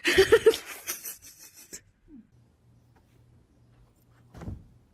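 A person laughing in a quick run of short bursts at the start, then the sound dies away to near quiet with a faint steady hum and one brief sound near the end.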